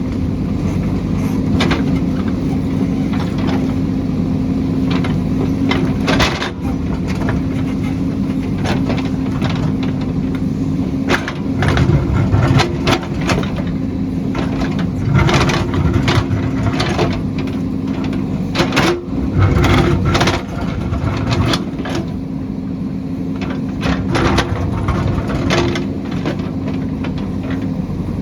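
A heavy construction machine's engine running steadily, with repeated clanks and knocks and several deeper surges of engine effort.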